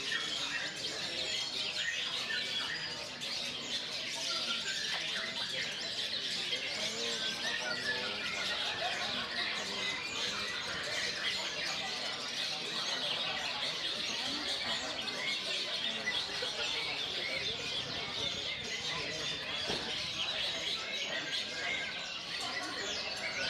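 Caged cendet (long-tailed shrike) singing: a dense, continuous stream of fast chirps and trills, with no pauses.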